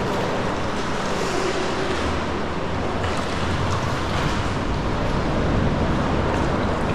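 Sea water washing and slapping around a sea kayak, mixed with wind buffeting the microphone: a steady, noisy rush with a low rumble underneath.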